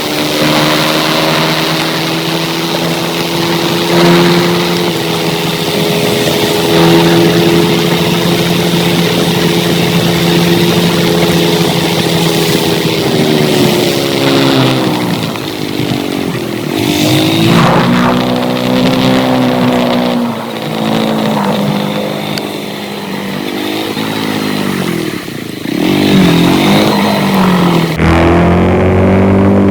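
Motorcycle engine running at a steady pitch for about half the time, then dropping and rising in pitch several times as it slows and picks up again, over a steady rushing hiss.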